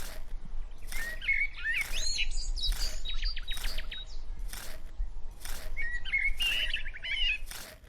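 Small birds chirping and trilling in short bursts, over an even series of short, scratchy strokes repeating about twice a second.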